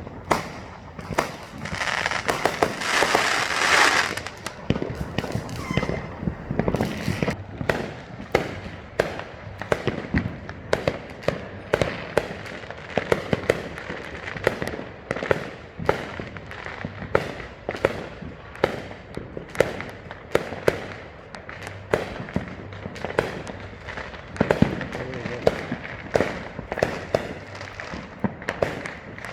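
Many consumer fireworks and firecrackers going off at once: a dense, irregular string of overlapping bangs and pops, with a loud rush of hissing crackle about two seconds in that lasts a couple of seconds.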